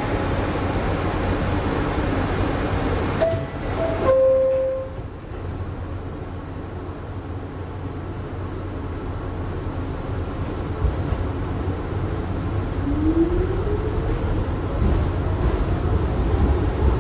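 Kawasaki R62 subway train running on the rails, a steady rumble of wheels and car. About four seconds in the noise drops off abruptly with a brief squeal. Later a rising motor whine comes in as the train picks up speed and the rumble grows louder again.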